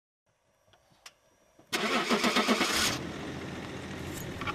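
Ignition key turned with a couple of faint clicks, then the starter cranks the engine for about a second before it catches and settles into a steady idle.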